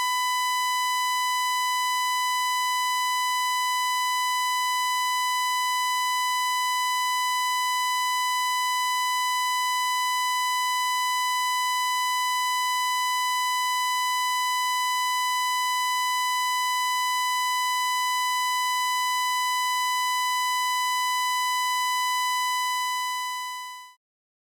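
A steady, high-pitched electronic beep tone with a buzzy edge, held at one unchanging pitch, then fading out and stopping shortly before the end.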